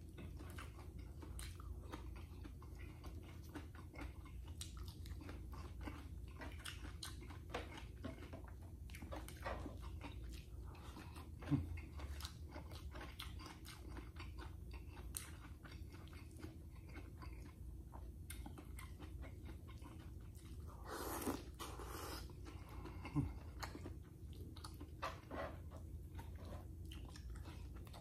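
Close-up chewing and crunching of food eaten by hand, a meal that includes crisp fried tuyo (dried salted fish), with many small mouth clicks. A couple of louder single clicks stand out near the middle and about two-thirds through.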